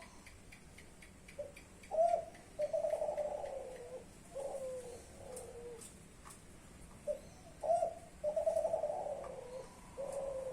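Young Kelantan-type spotted dove (derkuku) cooing: two matching calling phrases about five seconds apart, each a short note, a higher rising note, a long trilled coo that falls in pitch, then lower falling notes.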